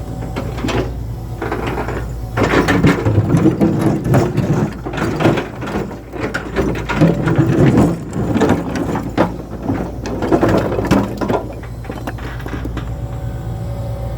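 Irregular mechanical clattering and knocking over a steady low engine hum, busiest through the middle and dying down near the end.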